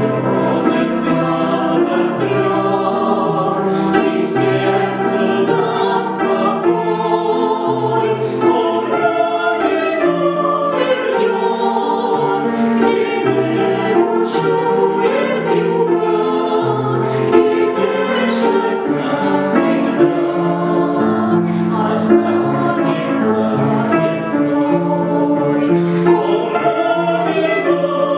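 A choir singing: several voices in harmony, holding long notes with sung words.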